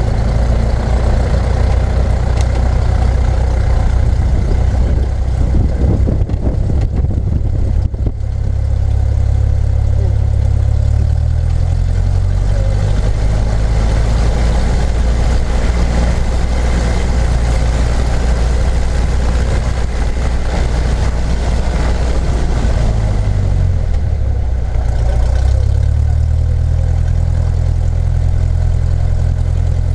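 A loud, steady engine drone with a low hum, heard from inside the vehicle. Its pitch shifts down around twelve seconds in and back up around twenty-four seconds in, as the engine speed changes.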